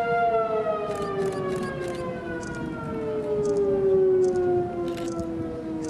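Outdoor tornado warning siren sounding a steady tone, then sliding slowly down in pitch as it winds down. It swells louder about two-thirds of the way through, then eases off.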